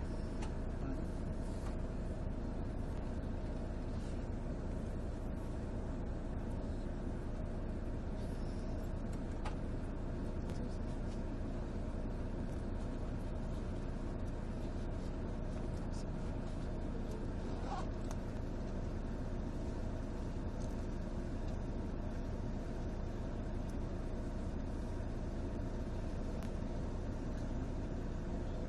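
Volvo 9700 coach's D13C 13-litre six-cylinder diesel running at a steady speed, a constant low drone with no revving or gear changes.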